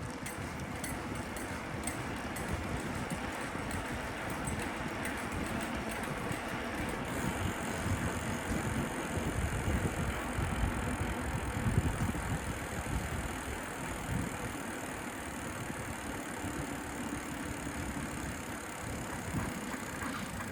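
Street noise from a moving bicycle: a steady, uneven low rumble of wind and road on the microphone, with traffic around.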